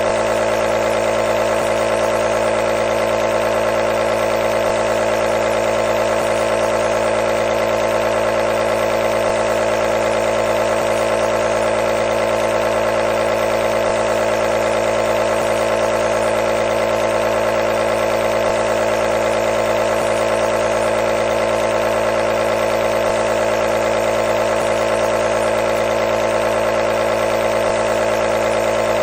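Compressor nebulizer running steadily: a constant mechanical hum over a hiss, with no change in pitch or level.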